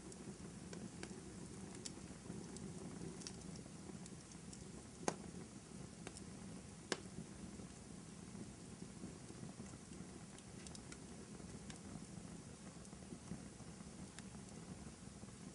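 Wood fire crackling in a fireplace: a soft steady low hiss of flames with scattered small crackles and two sharper pops, about five and seven seconds in.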